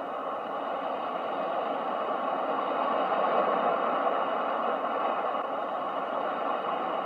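Ocean surf: a steady rushing wash of waves that swells slowly to a peak about three seconds in, then eases back.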